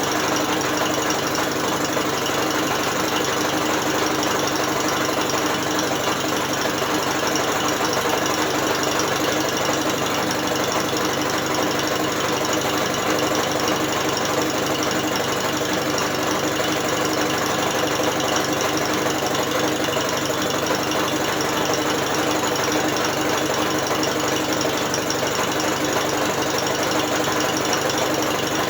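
British Seagull outboard motor being spun by an electric drill rather than running on its own power: a steady, unchanging mechanical run of the drill and the turning engine and gears.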